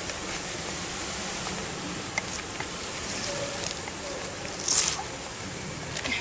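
Honeybees from a shipped package buzzing steadily around the hive, a low hum under outdoor noise, with a short scratchy rustle about five seconds in.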